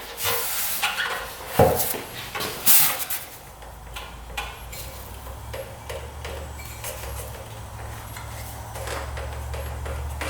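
Clanks and clicks of tools and metal parts being handled as a motorcycle's fuel tank is taken off. The knocks are loudest in the first three seconds, and a low steady hum comes in about four seconds in.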